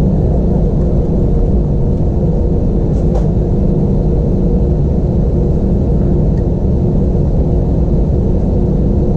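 Steady low rumble of an Airbus A320-232's IAE V2500 engines and airframe heard inside the passenger cabin, with a faint steady hum over it. A brief faint click about three seconds in.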